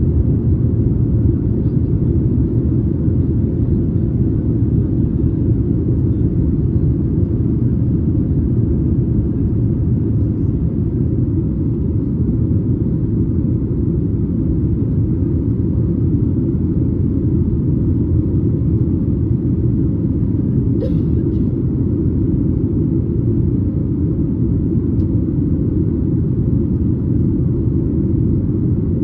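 Steady low cabin rumble inside a Boeing 737 MAX 8 airliner with its engines running, heard from a window seat just behind the wing. A faint click about 21 seconds in.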